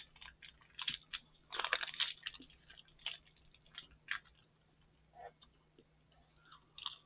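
Close-up crunching and chewing of a chocolate-covered Kit Kat wafer: irregular crisp crunches, a thick cluster of them about one and a half to two seconds in.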